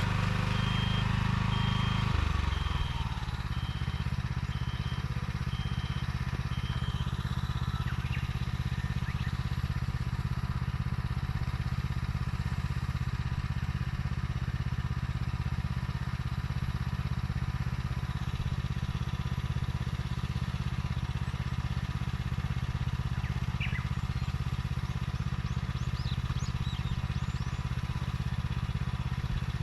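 Small engine of a vegetable transplanter running steadily; its note drops and settles about two seconds in.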